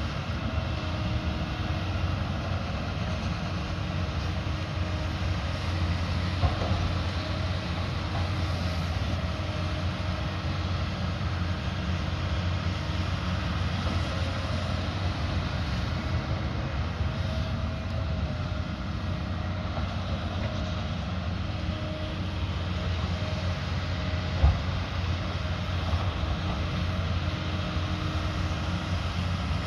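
Diesel engine of a heavy construction machine running steadily with a low, even drone. There are two short knocks, a faint one early and a sharp, louder one late on.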